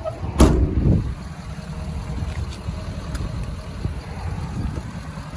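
One heavy thump about half a second in, over a steady low rumble.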